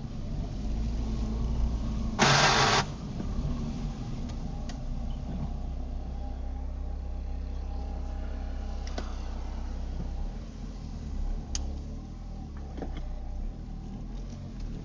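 Car engine running steadily, heard from inside the car, with a loud half-second burst of noise about two seconds in and a few faint clicks later.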